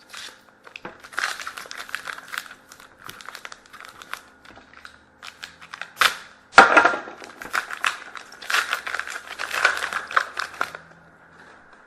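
Crinkling and tearing of a foil trading-card pack wrapper being handled, in irregular bursts, with the loudest snap of plastic about six and a half seconds in.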